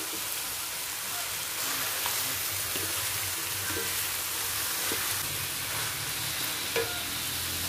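Goose meat and spices sizzling as they are stir-fried in a stainless steel wok, with a spatula now and then clicking and scraping against the pan.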